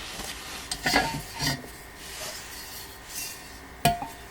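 Parts of a flat-pack printer stand being handled: rubbing and shuffling with a few light knocks, and a sharper knock near the end.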